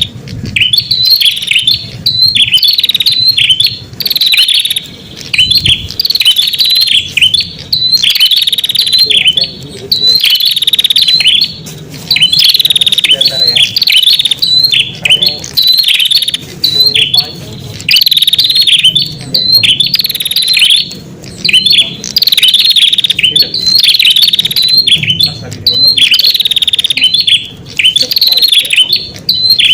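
Red-headed prenjak (prenjak kepala merah) calling in loud, rapid, repeated high chirping phrases with brief pauses between bursts, a recorded lure call (suara pikat) used to draw in wild prenjak.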